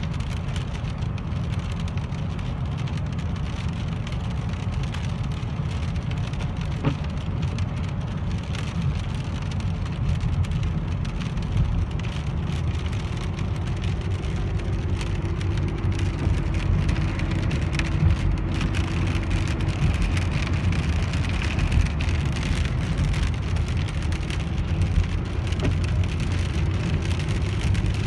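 Steady low road and engine rumble heard from inside a moving car, with rain falling on the car.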